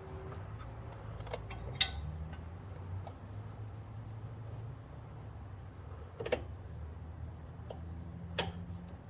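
A few sharp plastic clicks as the brake pad wear sensor wire is pressed into its securing clips, the two loudest about six and eight seconds in, over a faint low hum.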